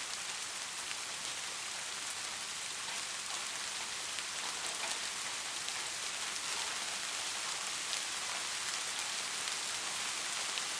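Steady rain falling, a continuous hiss with many small drop ticks spattering on a surface.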